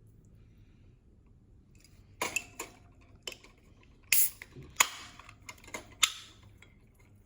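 A quick run of sharp clicks and clatters from small hard objects being handled, about a dozen in all, bunched between two and six seconds in.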